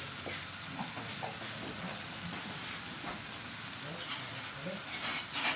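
Snails sizzling in a hot wok, their own cooking liquid already boiled off, with a steady frying hiss and small crackles. A louder burst of sizzling comes near the end as soy sauce is poured onto them.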